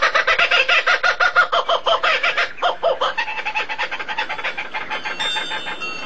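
A bird calling in a fast run of short, repeated chattering notes, several a second, that grows fainter after about halfway.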